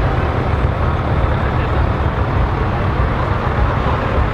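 Scania V8 truck engine running steadily at a low, even pitch, with no revving.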